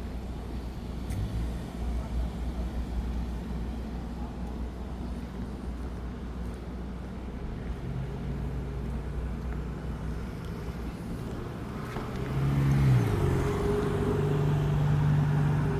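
Road traffic: a steady low rumble, then a vehicle engine hum that grows louder past the halfway point. Its pitch drops sharply about three-quarters of the way through as it passes, and a steady engine tone holds to the end.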